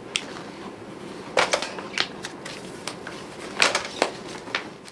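Sheets of paper being handled on a desk: a few short, crisp rustles and taps spread over several seconds.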